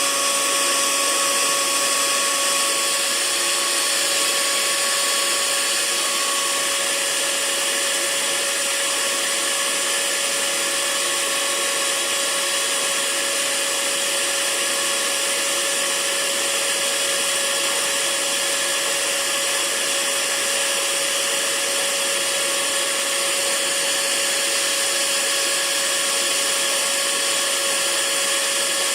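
Hair dryer running steadily: an even rushing hiss with a few faint constant tones under it, no change in speed.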